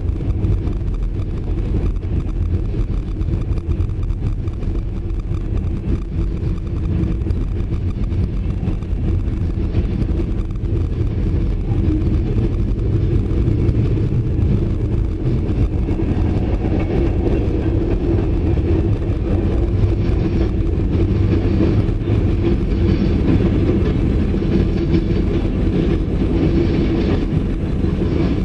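Pan Am Railways freight train rolling past close by: a steady, heavy rumble of wheels on rail, growing louder and brighter in the second half.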